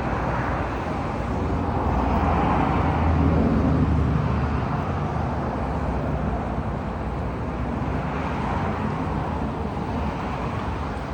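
Car engine running close by over general traffic noise, with a low rumble that grows louder about two to four seconds in and then eases off.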